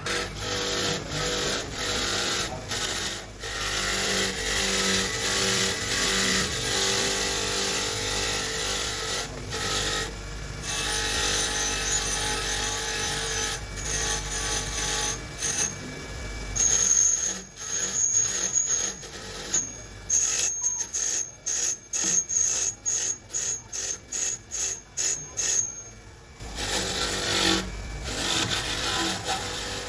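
Hand tool work on turbocharger metal parts, scraping and rubbing, over a faint steady machine hum. About two-thirds of the way in it turns into quick, even strokes, about two a second, for several seconds.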